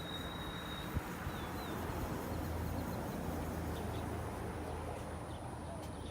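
Outdoor ambience: a steady low rumble with a few faint bird chirps and a single small click about a second in.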